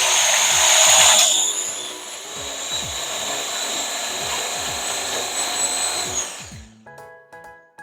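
Marinade being mixed in a bowl: a steady mixing noise, loudest in the first second, that goes on evenly and stops about six and a half seconds in.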